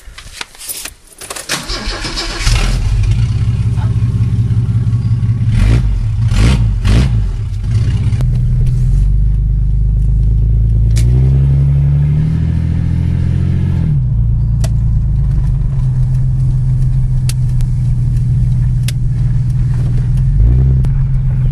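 Ford EA Falcon inline-six engine cranking and catching, then settling into a steady low idle. Three quick throttle blips follow, then one longer rev held for about three seconds, and a short blip near the end.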